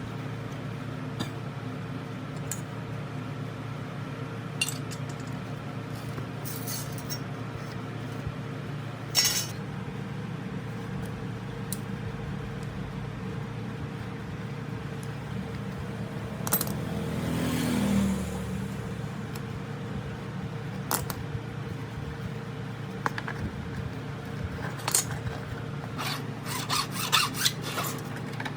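Hand-tool work: scattered clicks and scraping over a steady low hum, with a cluster of quick clicks near the end and a longer swell of sound a little past the middle.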